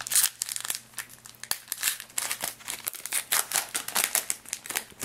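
A trading-card pack wrapper crinkling as it is opened and handled, in an irregular run of sharp crackles.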